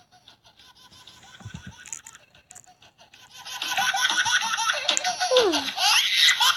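A baby laughing in quick repeated bursts of high-pitched giggles, faint at first and loud from about three seconds in, with music underneath.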